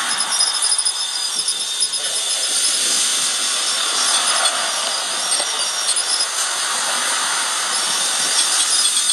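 Cordless drill turning a hand winch to crank up an antenna tower through pulleys: a steady mechanical whirring with faint high-pitched squeaks and rattles from the winch and cable.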